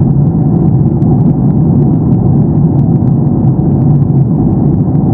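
Steady engine and airflow rumble inside the cabin of a Boeing 737-800 in flight, from its two CFM56-7B turbofans.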